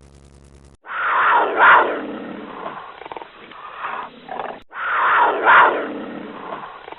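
Big cat roaring twice, about four seconds apart, each roar falling in pitch and trailing off into shorter grunting calls.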